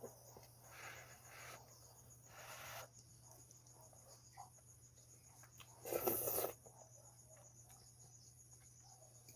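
Quiet eating sounds of someone working through a bowl of ramen noodles, with one louder short noise about six seconds in, over a steady high chirring of crickets.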